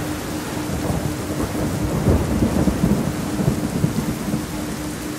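Steady rain with a low rumble of thunder that swells about two seconds in and fades by about four seconds.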